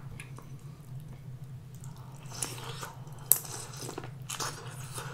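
Close-up wet biting and chewing of a corn cob soaked in butter sauce: a few squelchy bites from about two seconds in, with one sharp click in the middle. A steady low hum runs underneath.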